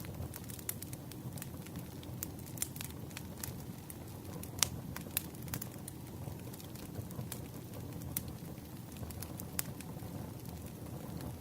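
Wood campfire burning: a steady low rumble of flames with scattered sharp crackles and pops, the loudest pop about halfway through.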